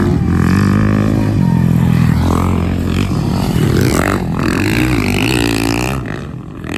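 Motorcycle engines running, their pitch holding steady and then rising and falling as they rev, dropping away near the end.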